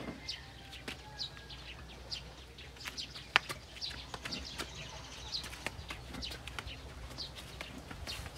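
Small birds chirping over and over in short high chirps, with scattered sharp clicks and knocks; one louder knock about three and a half seconds in.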